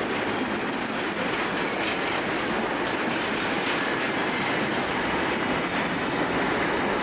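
Railway carriages and a trailing wagon of a passenger train rolling past on the track, wheels clicking over the rail joints. The last vehicle clears about five seconds in, but the steady rolling noise of the train carries on undiminished.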